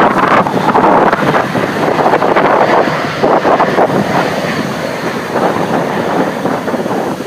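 Twin-engine Airbus A319 jet airliner's engines roaring as it lands, the roar slowly fading, with wind buffeting the microphone.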